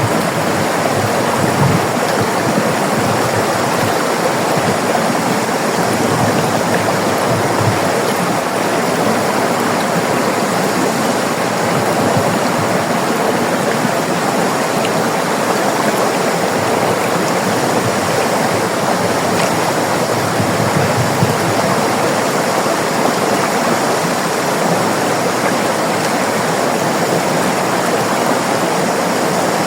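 River water rushing and flowing over rocks: a steady, even rush with no change.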